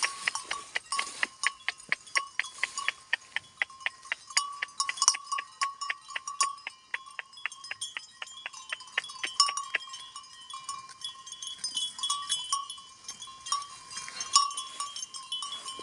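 Small metal bell clanking in rapid, irregular strikes, several a second, each with a short ringing tone; the clanking thins out over the last few seconds.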